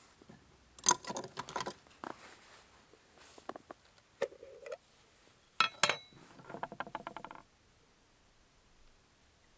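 Small hard objects being handled: a few sharp clicks and clinks, a short squeak a little past the middle, and a quick run of ticking rattles near the end.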